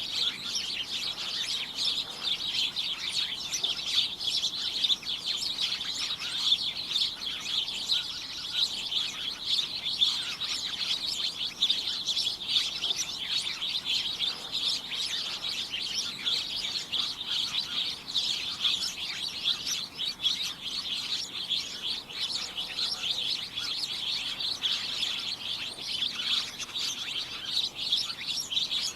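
Many small birds chirping at once: a dense, continuous chatter of short high-pitched chirps overlapping without pause.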